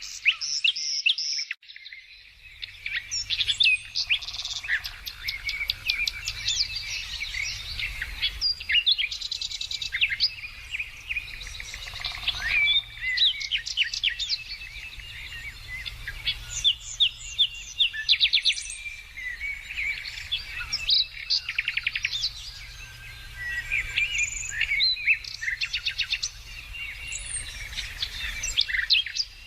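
Several songbirds singing and chirping at once, overlapping calls with rapid trills, over a steady low rumble.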